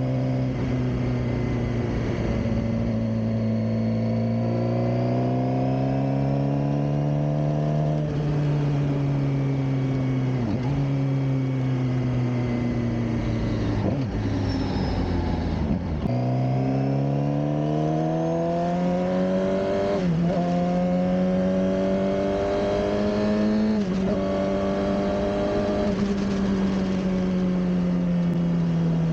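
Suzuki GSX-R600 K7's inline-four engine riding through traffic, its pitch rising under throttle and dropping at each gear change. It slows down near the middle, then pulls away again through two or three upshifts.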